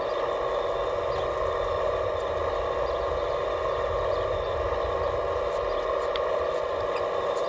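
Radio-controlled scale construction machine's electric drive running with a steady whine.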